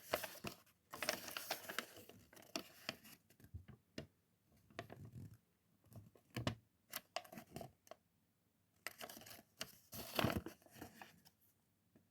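Lego set packaging being torn open and handled: irregular bursts of tearing and crinkling, with a few sharp clicks and knocks in between.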